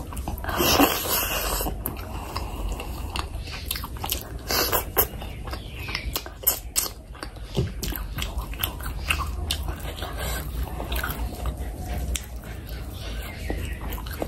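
Close-miked eating of oily fish curry by hand: chewing and wet lip smacks with many short sharp clicks, and one longer, louder burst about a second in.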